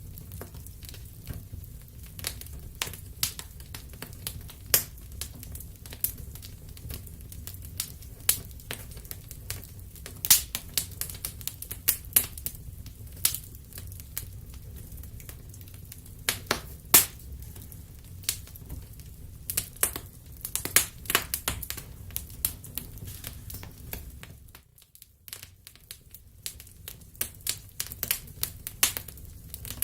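Wood fire in a fireplace crackling and popping: irregular sharp snaps over a steady low rumble of the flames, briefly quieter about 25 seconds in.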